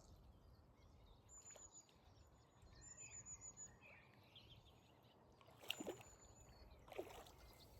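Near silence: faint outdoor background noise, with two brief, slightly louder sounds about three-quarters of the way through.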